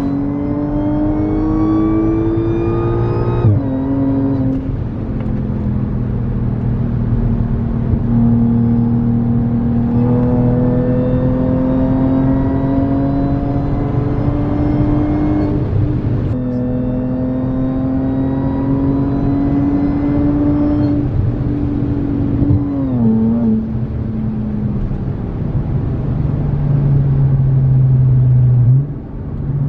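2014 Audi S5's supercharged 3.0 V6 with an X-pipe and muffler delete, pulling under load with the engine note slowly climbing. It shifts up about three seconds in and again about halfway through. Near the end it eases off to a lower, steady drone.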